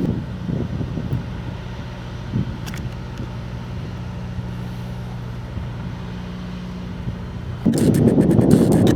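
A vehicle engine running steadily with a low even hum; near the end, wind buffets the microphone loudly.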